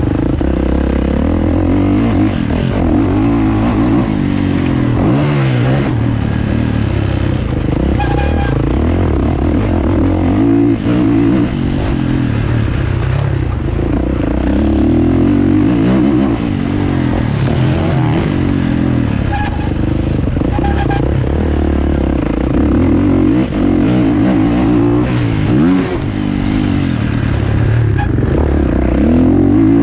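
Four-stroke 450cc motocross bike engine racing, revving up and down over and over as the throttle is opened and shut.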